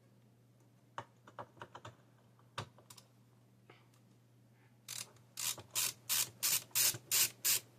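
Screwdriver working the spring-loaded screws of a graphics card's cooler: a few light scattered clicks, then a run of about eight even, scratchy strokes at about three a second.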